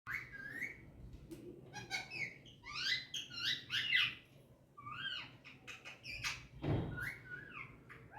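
Pet parrot chirping and whistling: a run of short chirps and whistles that slide up and down in pitch, with a few sharp clicks among them.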